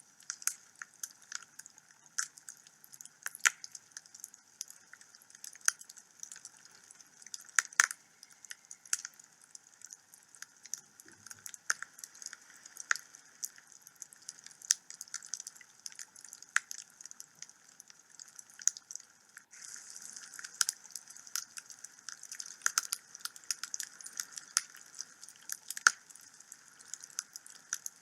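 Wood fire burning in a fireplace, crackling with irregular sharp pops and snaps over a steady hiss, the crackling getting denser about two-thirds of the way in.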